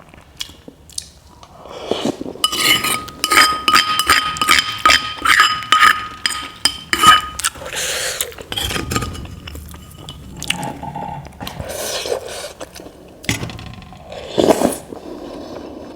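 Metal cutlery clinking against a ringing bowl: a quick run of clinks, about two or three a second, with the bowl ringing at a steady pitch from about two to seven seconds in, then a few softer, scattered clatters.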